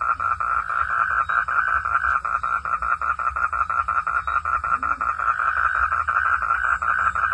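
Frogs calling at night: a fast, even train of pulsed calls that keeps going without a break.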